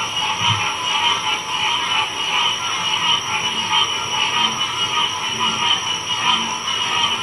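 A dense chorus of many frogs calling at once, a steady overlapping wall of pulsing calls with no gaps.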